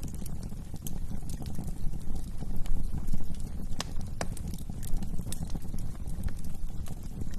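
Wood fire crackling in a fireplace: irregular sharp pops and snaps over a steady low rumble of the flames, with two stronger pops a little before the middle.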